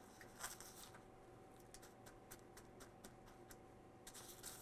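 Faint rustling of an egg-dipped cube steak being laid into and pressed against a flour and crushed saltine cracker coating, in two short bursts about half a second in and near the end, with scattered light ticks between.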